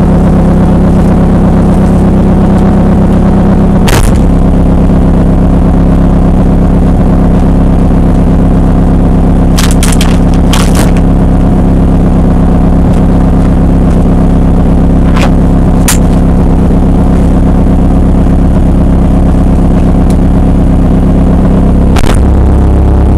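Drift car's engine running at a steady low speed, heard from inside the cabin as a loud drone that overloads the microphone, with a few sharp clicks along the way. Near the end the engine note drops, turning deeper.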